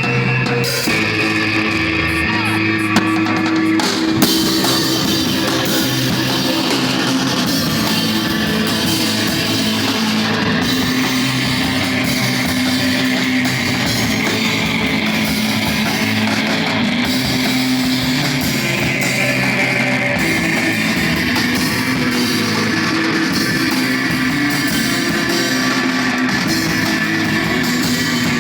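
Live noise-rock band playing: electric guitar and drum kit, loud and steady with long held notes.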